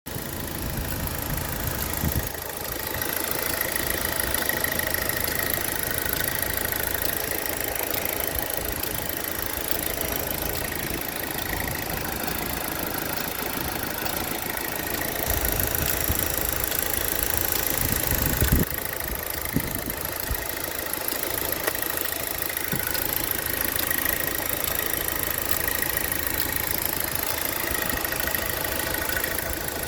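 2010 Opel Insignia 2.0 turbo engine idling with a ticking that repeats about once a second, like a clock, from a source the owner cannot locate. A couple of brief thumps stand out, about two seconds in and again past the middle.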